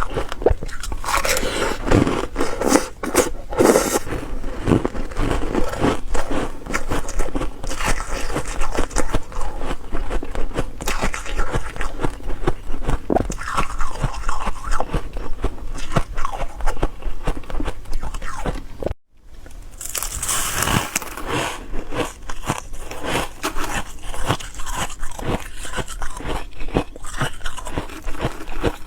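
Ice being bitten and chewed: dense, irregular crunching and cracking of ice between the teeth, with a brief silent break about two-thirds of the way through.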